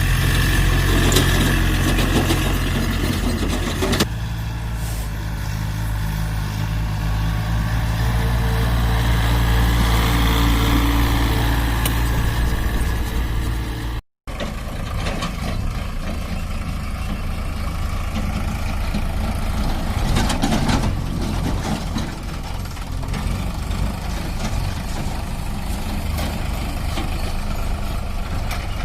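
Sonalika DI 47 RX diesel tractor engine running steadily. The sound changes abruptly about four seconds in and drops out for a moment near the middle, then the engine runs on.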